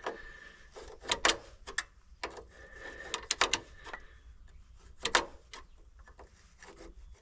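Scattered clicks and knocks of metal parts and hand tools as a vent tube is worked off an old truck engine's valve cover area, with a faint high squeak in two stretches.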